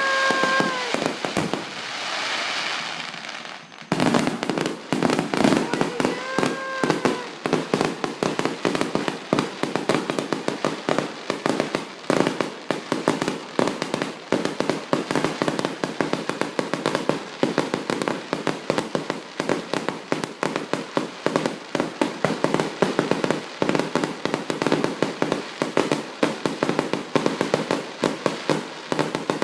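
Fireworks display: a softer rushing noise for the first few seconds, then abruptly a dense, continuous barrage of bangs and crackling. A short whistling tone sounds twice, near the start and again a few seconds after the barrage begins.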